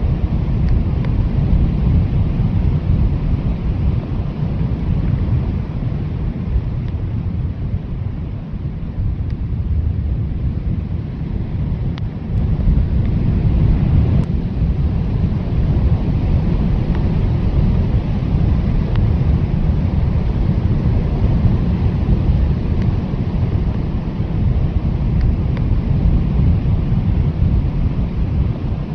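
Strong blizzard wind blowing steadily, heard mostly as a deep low rumble with little hiss. It eases slightly about a third of the way in and picks up again a little before the middle.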